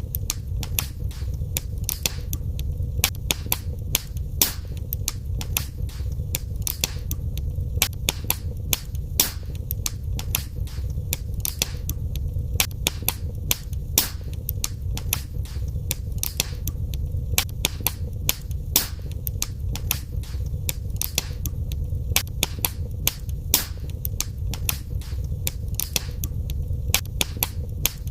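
Wood fire in a fireplace crackling: frequent sharp pops and snaps, several a second, over a steady low rumble of the burning fire.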